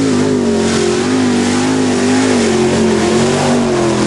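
Mud bog race truck's engine held at high revs under hard throttle, its pitch wavering slightly up and down.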